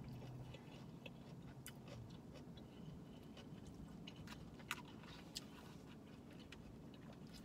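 Faint chewing, with scattered small clicks and ticks of a fork and a plastic takeout bowl being handled while eating; the sharpest tick comes a little under five seconds in.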